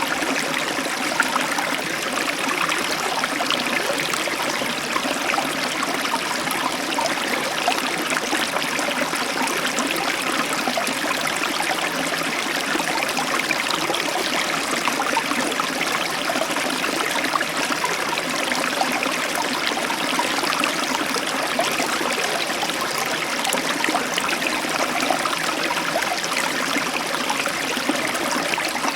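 Heavy tropical downpour of rain, a steady dense hiss full of small drop impacts.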